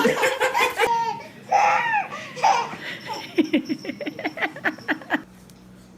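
A person laughing hard, ending in a quick run of short, rhythmic laughs that stops abruptly about five seconds in.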